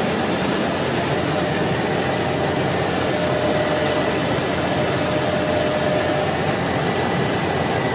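Tractor-trailer's diesel engine and road noise heard from inside the cab while cruising on the highway: a steady drone with a faint high whine, no changes.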